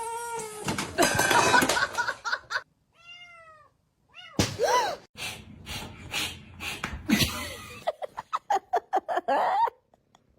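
Domestic cats meowing: several separate meows, each rising and then falling in pitch, one just after the start, one about three seconds in and one about four and a half seconds in. Between them come louder noisy stretches and a run of short knocks and clicks near the end.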